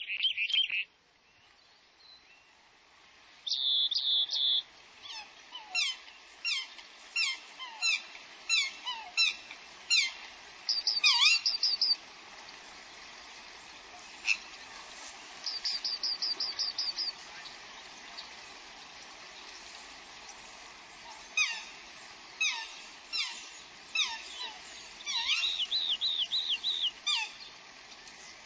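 Birds calling: a run of quick whistled notes that each slide steeply downward, repeated about twice a second in two long series, with several bursts of rapid high trills in between, over a steady background hiss.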